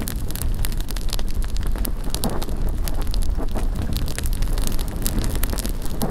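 Bonfire crackling with frequent sharp, irregular pops, over a steady low rumble of wind on the microphone.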